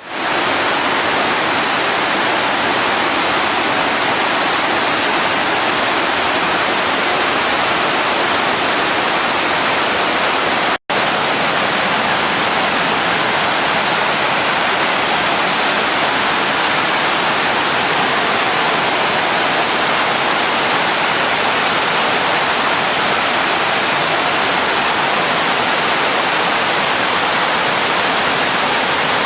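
Waterfall in flash flood, swollen with runoff after heavy overnight rain: a loud, steady rush of water. It cuts out for an instant about eleven seconds in, and a thin steady high tone sits over it throughout.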